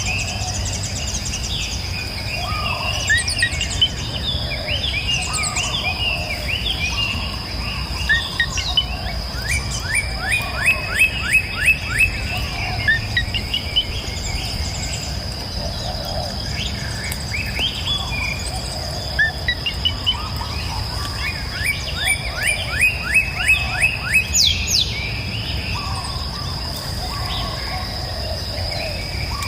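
Several songbirds singing and chirping. Twice a bird gives a fast trill of about eight quick notes a second, once about ten seconds in and again near the end. Underneath run a steady high thin tone and a low, even rush.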